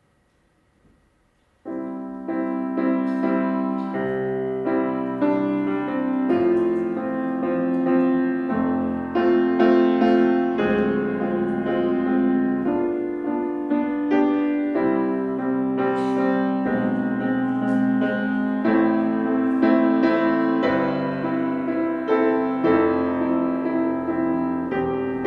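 Solo piano: after a short moment of near silence, the piano comes in about two seconds in and plays a steady run of chords.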